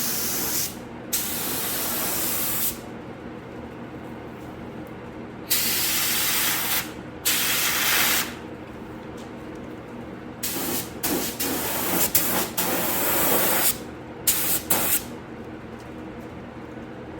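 Harbor Freight air paint gun spraying primer in hissing bursts: several passes of a second or two each, then a run of short, quick trigger pulls near the end, over a steady low hum.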